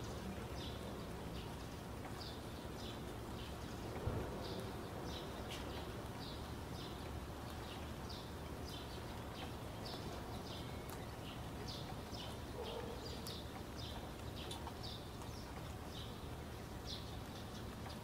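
Small birds chirping in short, irregular calls over a steady background hiss, with one soft thump about four seconds in.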